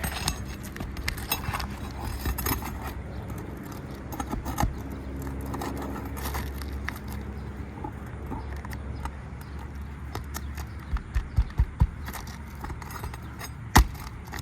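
Steel pry bar working under brittle asphalt shingles: scattered scraping and clicking as the sealed tabs are forced loose and granules are knocked off. A run of sharp knocks comes near the end.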